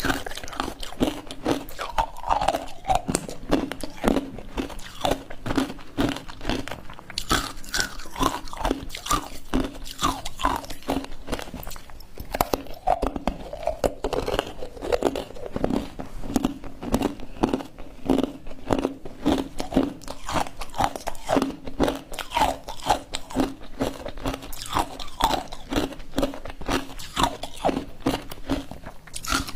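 Ice made with matcha being bitten and chewed close to the microphone: a continuous run of crisp crunches, several a second.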